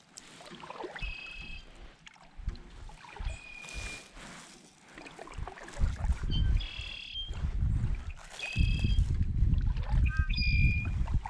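A bird calling outdoors: about five short, clear, held calls at roughly two-second intervals, with a few quick descending chirps near the end. From about six seconds in, a loud low rumble comes and goes underneath.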